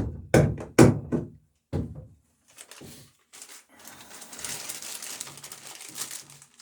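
A few sharp hammer blows in the first two seconds, then a steady crinkling rustle of a plastic bag of rivet washers being handled.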